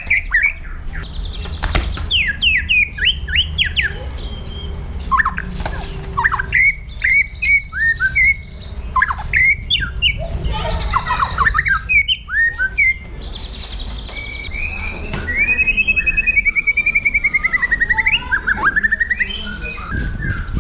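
White-rumped shama singing a varied, loud song of quick sliding whistles and sharp chirps in bursts. About three quarters through it runs into a long, fast, wavering trill.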